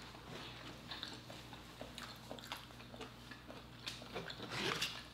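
Quiet chewing of lobster meat: faint mouth clicks and soft smacking sounds over a steady low hum.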